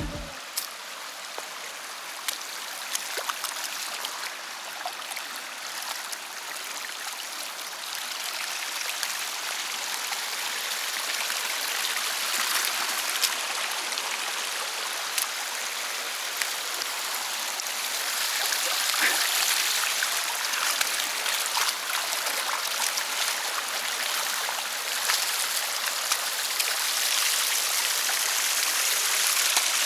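River water flowing over stones: a steady rushing with small scattered ticks and splashes, swelling a little louder over the second half.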